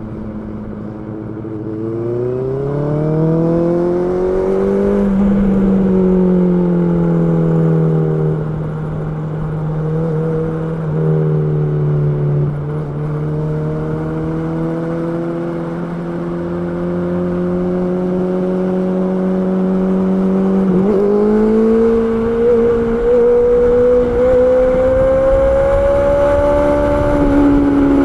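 Honda CB650R's inline-four engine pulling up through the revs, then holding a steady pitch with a few brief dips. It climbs gradually again over the last third.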